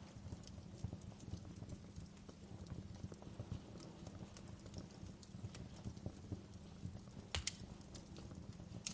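Fireplace fire crackling: a low steady rumble with scattered small snaps and pops, and two sharper pops near the end.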